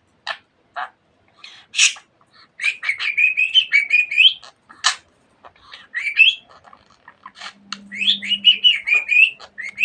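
Budgerigar warbling and chattering: a few short, sharp chirps, then two runs of rapid, wavering warble.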